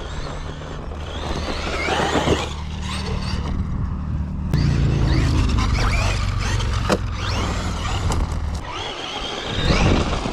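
Traxxas Maxx V2 RC monster truck driving, its 1515 brushless motor whining up and down in pitch as it speeds up and slows, over a steady low rumble.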